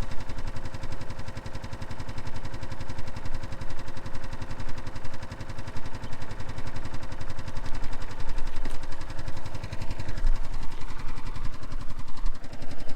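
An engine idling steadily, its even firing pulses running without a break.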